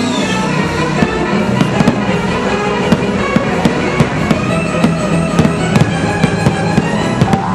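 Fireworks bursting in a run of irregular sharp bangs and crackles over loud orchestral show music.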